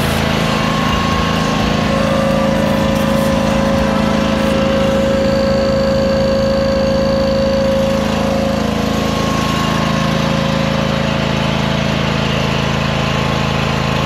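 Log splitter's small gasoline engine running steadily, with a higher steady whine added from about two seconds in until about eight seconds in.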